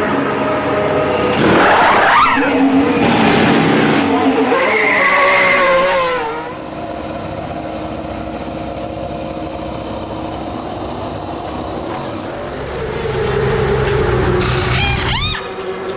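Race car engines running and revving, their pitch rising and falling, with three short loud hissing rushes; the last one, near the end, carries a falling whine.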